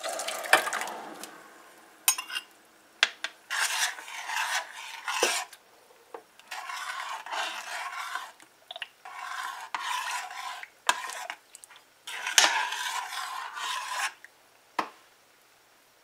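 A spoon scraping soaked quick oats from a bowl into a pot of hot water, in several rasping strokes with a few sharp knocks of the spoon against the dish.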